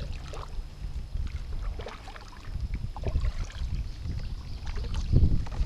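Wind rumbling on the microphone, rising and falling, with a few faint small clicks.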